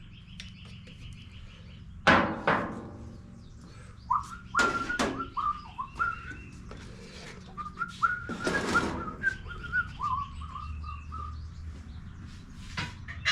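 Metal clanks and knocks of hand work on a lawn mower, several ringing briefly. Between them comes a run of short, high, wavering whistled notes.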